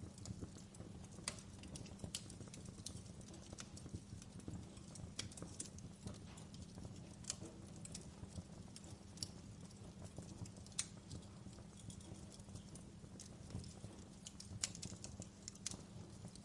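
Wood fire in a fireplace crackling: irregular sharp pops and snaps over a low, steady rumble of the flames, with one louder pop near the end.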